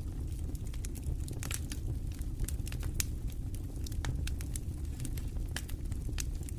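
Campfire crackling with irregular sharp pops, several a second, over a steady low rumble of wind.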